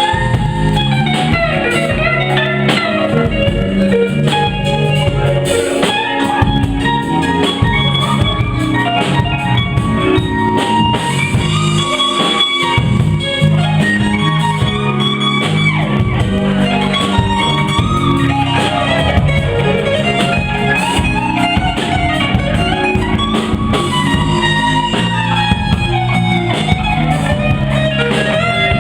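Live blues band playing: electric guitar lines over bass and a drum kit, with the bass dropping out briefly about twelve seconds in.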